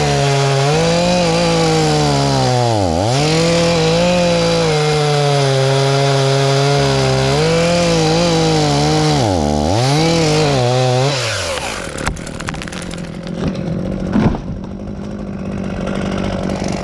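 Chainsaw running at full throttle bucking a thick, sappy trunk; the throttle is let off and squeezed again twice, then a little past halfway the saw drops to idle. A couple of sharp knocks come while it idles.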